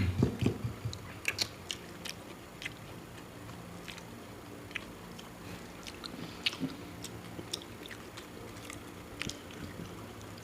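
Close-up eating sounds: bites and chewing, with scattered moist clicks and small crunches that are loudest in the first second or so. A faint steady low hum runs underneath.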